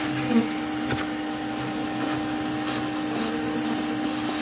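A vacuum running steadily with a constant hum over a rush of air, as used to suck loose honeybees off the comb during a hive removal.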